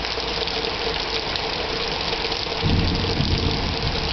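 Steady hiss of falling water with a faint steady hum, joined about two and a half seconds in by a louder low rumble.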